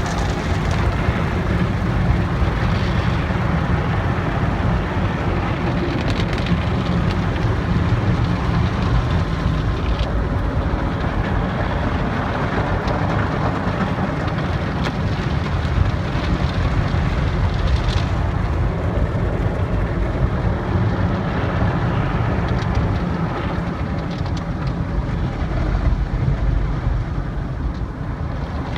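Automatic car wash at work: a steady rush of water spray over a strong low machinery rumble, with a few faint knocks here and there. The level dips slightly near the end.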